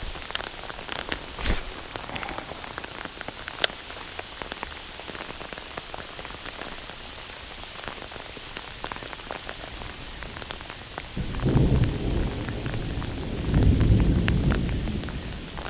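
Heavy rain falling steadily, with many sharp ticks of drops striking close by. About eleven seconds in, a low rumble of thunder rolls in for several seconds and is the loudest sound.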